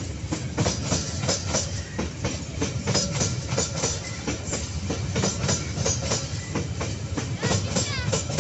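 KAI Babaranjang coal train rolling past, its wheels clattering irregularly over the rail joints above a steady low rumble. A brief wheel squeal sounds near the end.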